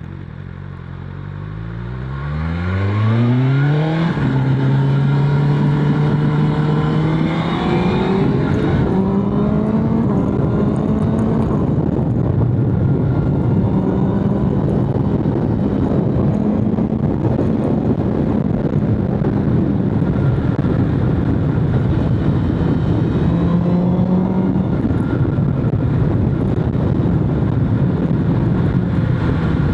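BMW S1000RR inline-four engine pulling hard from low revs, its pitch climbing steeply over the first few seconds and rising again in steps. It then holds a steady high-revving note at speed, with a brief rise near the end.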